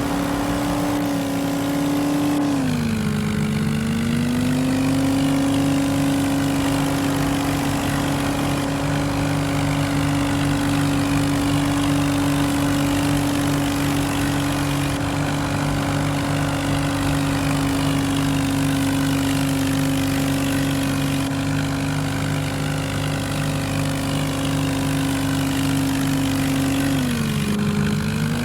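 Vehicle engine held at steady high revs under heavy load, straining in a tug of war between a car and a tractor. Its pitch sags briefly about three seconds in and again near the end.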